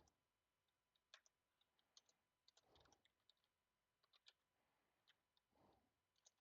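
Near silence with faint, irregular clicks of computer keyboard typing, some in quick runs of keystrokes, and a few soft breaths.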